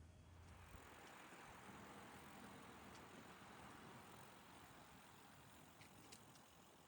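Near silence: a faint rushing hiss that swells over the first few seconds and slowly fades, with a couple of soft ticks near the end.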